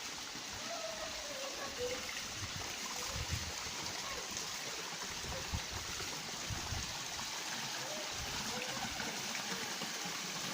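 Water of a waterfall and its stream rushing steadily, an even wash of noise.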